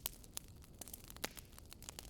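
Faint wood fire crackling: irregular small pops and snaps over a low rumble.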